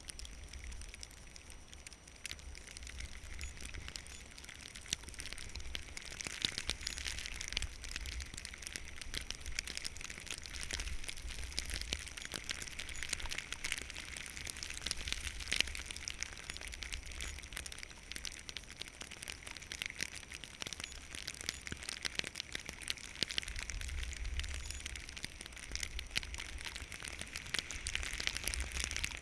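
Skis sliding and scraping over snow, a continuous crackling hiss with many small clicks that swells and eases in waves as the turns go, over a low buffeting rumble of wind on the microphone.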